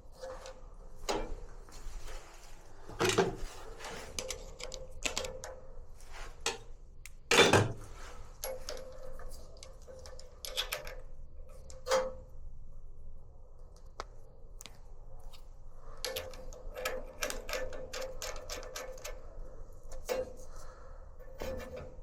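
Scattered clicks, taps and knocks of tools and parts being handled during work on a Bosch gas water heater, with a few louder knocks and a faint steady hum underneath.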